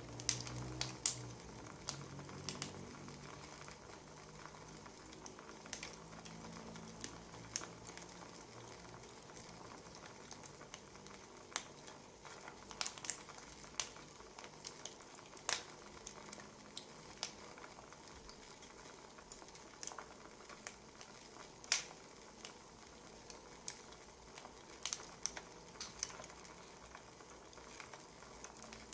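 Wood fire crackling: a steady hiss broken by irregular sharp pops and snaps.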